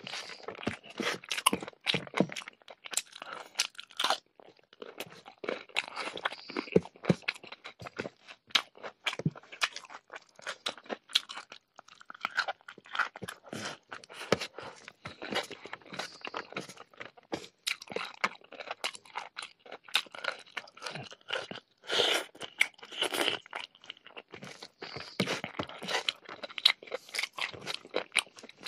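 Close-miked eating sounds: a person chewing and crunching a mouthful of food with dense, irregular smacks and crackles, along with fingers squishing and mixing rice and curry on a plate.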